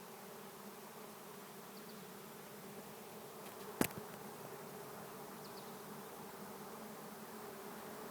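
Steady hum of a honey bee swarm in flight, hundreds of bees buzzing in the air as the swarm gathers to move into a capture box. One sharp click a little under four seconds in.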